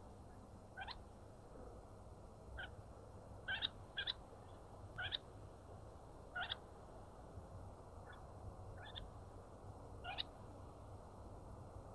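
A bird calling: about nine short, sharp calls, each sweeping steeply upward, spaced irregularly half a second to a second and a half apart, over a steady low hum.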